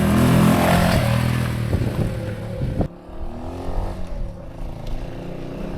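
Honda S65's small single-cylinder four-stroke engine running as the motorcycle is ridden. It is loudest at first, drops suddenly about three seconds in, then carries on quieter.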